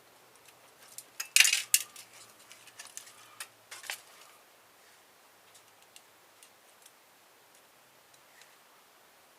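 Clinks and clatter of small metal parts and hand tools as a car stereo is dismantled. The clatter is loudest about a second and a half in and dies down to a few faint ticks after about four seconds.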